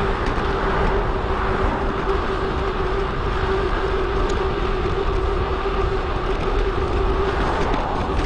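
Wind and road noise from a mountain bike ride, picked up by the action camera riding along and sped up, with a steady hum through most of it that fades out near the end.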